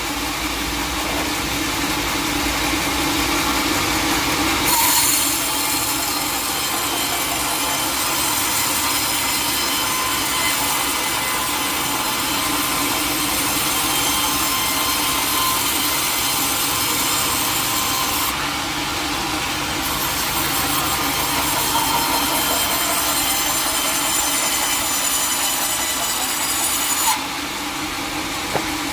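Sawmill saw cutting through teak wood: a steady, continuous sawing noise.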